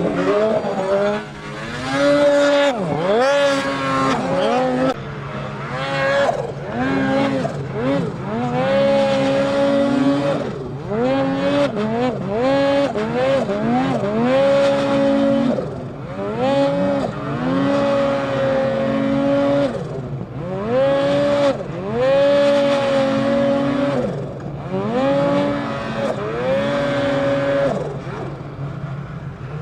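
Snowmobile's two-stroke engine, repeatedly opened to full throttle and held at a steady high pitch for a second or two, then backed off so the pitch drops, and opened up again.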